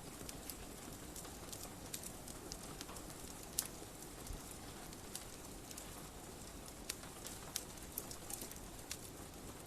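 Wood fire crackling, with irregular sharp pops over a steady hiss, the sharpest pop a little over three seconds in; rain adds to the steady hiss.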